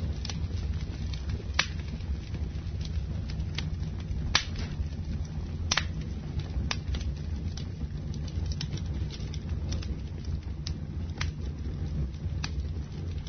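Wood campfire burning: irregular sharp crackles and pops over a steady low rumble of the flames, with two louder pops near the middle.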